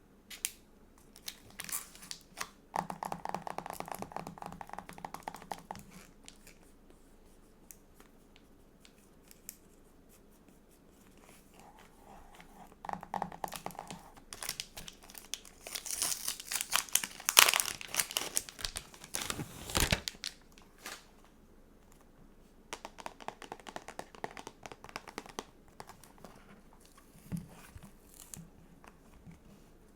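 Stickers and their plastic packaging being handled: several rasping peels of stickers coming off their backing, and a louder stretch of crinkling in the middle that ends in a soft knock.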